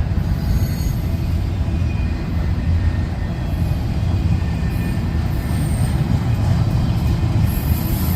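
A train rolling past, a steady low rumble of wheels on rail, with faint thin squeals from the wheels.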